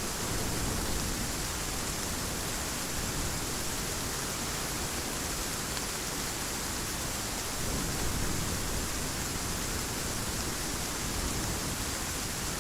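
Heavy rain falling steadily, an even hiss, with two soft low rumbles of distant thunder, about a second in and about eight seconds in.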